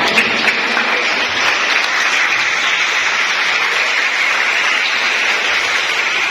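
An audience applauding, a steady clapping that holds evenly.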